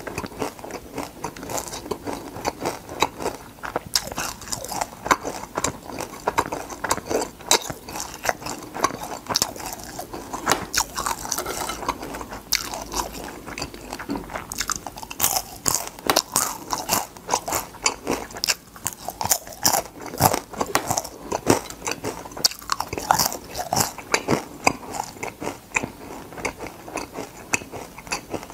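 Chewing and crunching of crispy deep-fried crab, a steady, irregular run of brittle cracks and crackles as the fried crab is bitten and chewed.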